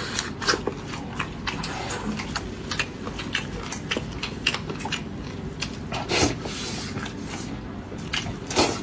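Eating sounds of someone chewing and biting pork ribs: many small irregular crunchy clicks, with a louder burst of chewing about six seconds in.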